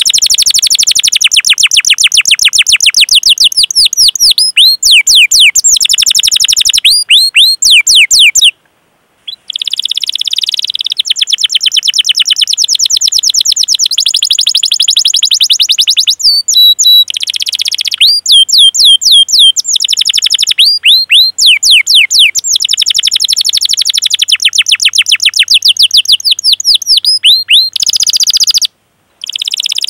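Domestic canary singing loud, long rolling trills made of very rapid, repeated sweeping chirps, with short changes of phrase. The song cuts out completely twice, briefly about nine seconds in and again near the end.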